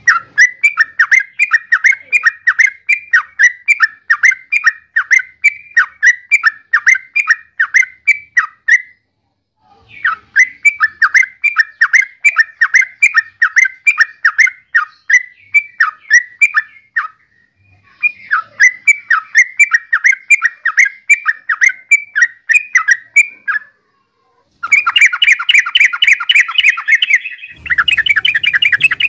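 Yellow-vented bulbul calling: long runs of quick repeated notes, about three a second, in several phrases broken by short pauses, the notes coming faster and denser near the end.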